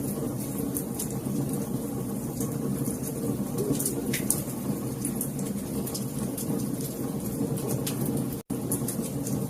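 Fireplace fire crackling: a steady low rumble of burning wood with frequent small sharp pops and snaps. The sound cuts out completely for an instant about eight and a half seconds in.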